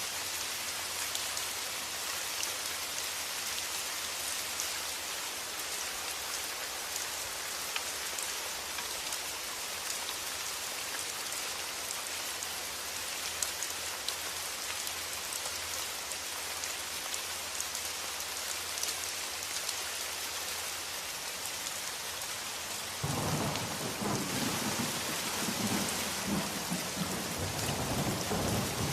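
Steady rain falling, with a low rumble of thunder that comes in suddenly about 23 seconds in and carries on to the end.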